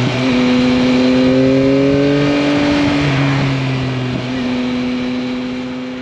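Yamaha MT-09's three-cylinder engine running under way at fairly steady revs, its note climbing a little over the first few seconds and then holding, with wind and road noise. The sound fades out near the end.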